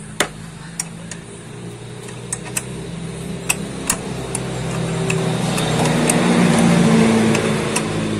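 A car engine running steadily, with scattered sharp clicks over it; the sound swells louder about six to seven seconds in, then eases.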